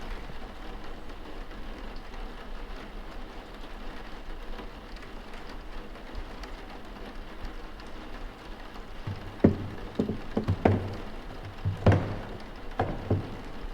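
Steady rain falling. About nine seconds in, a quick series of sharp knocks and low thumps breaks over it.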